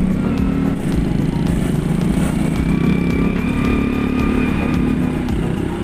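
Motorcycle engine running steadily while riding through town traffic, heard from on the bike. A thin, steady high tone joins for a couple of seconds in the middle.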